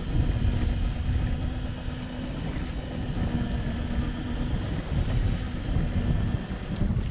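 Wind buffeting the microphone on an open boat at sea, with a steady low hum underneath that fades out about six seconds in.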